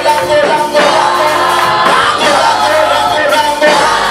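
Live gospel praise song with a band and group of singers, in Swahili, sung loud and steady in a large hall.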